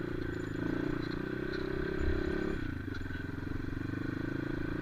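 Motorcycle engine running while riding, a steady drone whose tone shifts abruptly about two and a half seconds in.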